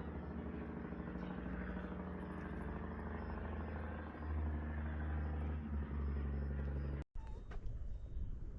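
A motor vehicle's engine running steadily, with a hum that gets a little louder about four seconds in. About seven seconds in the sound cuts out abruptly, and an uneven rustling noise follows.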